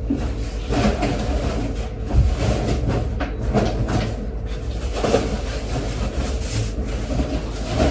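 Irregular rustling, crinkling and soft knocks of grocery bags and produce being handled, over a steady low hum.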